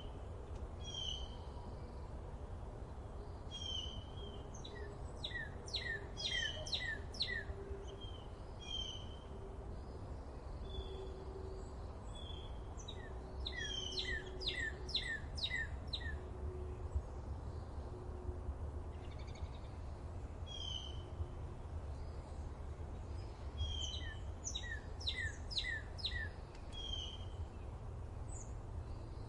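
Forest birds singing. One bird repeats a run of four or five quick, falling whistled notes every few seconds, while others give short chirps between the runs. A steady low rumble sits underneath.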